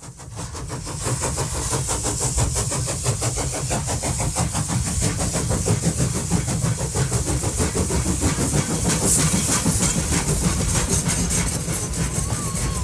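A small motor running steadily with a fast, even rattle and a hiss.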